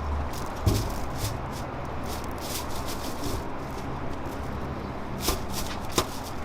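Continuous rattling and clattering with a low steady hum, broken by sharp knocks about a second in and twice near the end.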